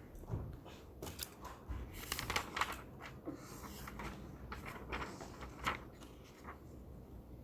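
Library reading-room ambience: a flurry of small clicks, rustles and light knocks from people handling things at their desks, thickest a couple of seconds in, with one sharper click later, over a low steady room hum.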